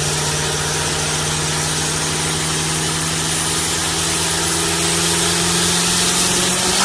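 A vehicle engine running steadily at a constant speed, like idling, with a steady hiss over it.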